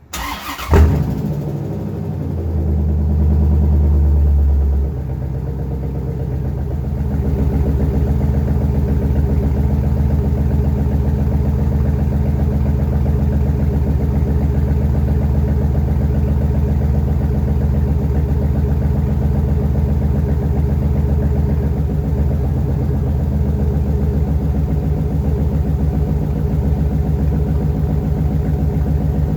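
1995 Chevrolet Corvette's LT1 5.7-litre V8 cold-starting: it cranks briefly and catches within a second with a loud flare. It runs at a raised cold fast idle for a few seconds, drops about five seconds in, and then settles into a steady, even idle.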